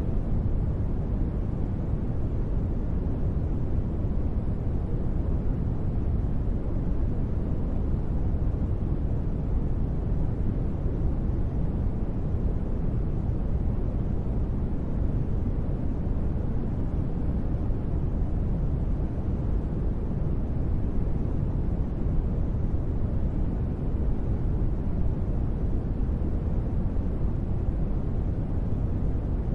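Steady ambient noise track, a deep rumble heavy in the low end with little treble, unchanging throughout.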